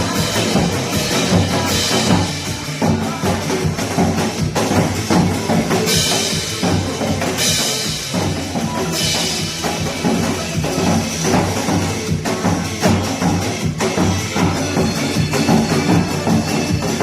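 Janggu drums beaten nanta-style, dense sharp strikes over a recorded trot song backing track.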